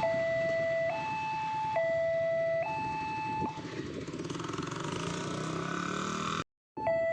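Electronic level-crossing warning alarm sounding a steady two-tone 'teng-tong', alternating a lower and a higher note about every 0.85 s. It stops about three and a half seconds in, leaving a rumble of passing traffic. The two-tone alarm starts again near the end.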